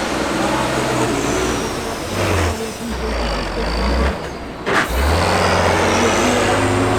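Diesel engine of a Tatra Dakar rally truck running under changing throttle, its low drone stepping up and down in pitch several times. A short sharp burst of noise comes about four and a half seconds in.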